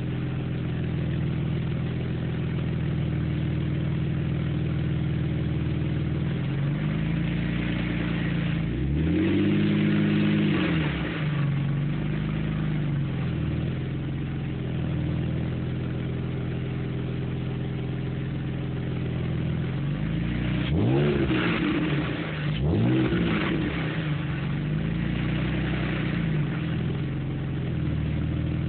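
BMW 530i with a custom dual exhaust idling and revved while stationary: about six throttle blips, the biggest around ten and twenty-one seconds in, each rising and falling back to a steady idle. The tone is deep, mellow and throaty.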